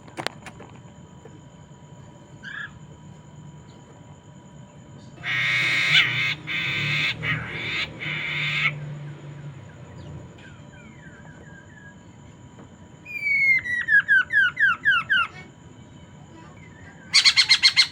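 A poksay mandarin laughingthrush singing: a loud, harsh rasping chatter of several seconds, then a quick run of about eight falling whistled notes, and another short harsh burst near the end.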